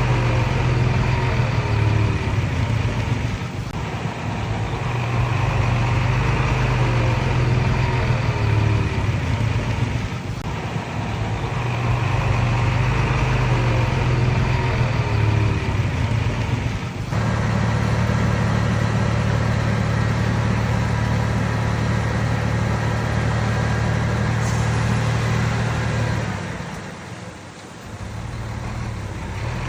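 Diesel engine of a Komatsu D31PX crawler bulldozer running hard while working. It rises and eases in repeating cycles about every six to seven seconds, then drops off briefly near the end.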